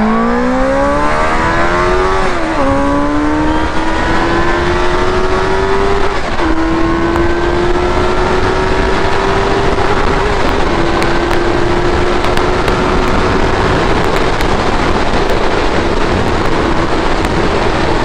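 Benelli 600i's inline-four engine under hard acceleration, its note climbing steadily through the revs and dipping briefly at three upshifts, about two and a half, six and a half and ten and a half seconds in, before pulling on at high revs.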